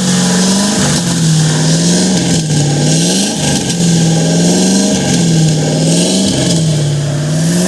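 Car engine with a twin-turbo setup revved high and held there, its pitch sagging and climbing back about every second and a half. The turbo compressors are barely spinning, which the owner fears may mean two bad turbos.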